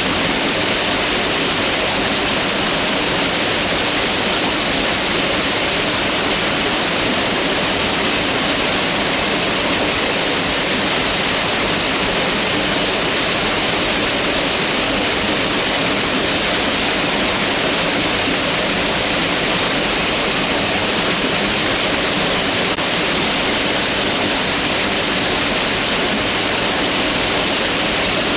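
Mountain river rushing steadily: a dense, even wash of flowing water with no breaks or changes.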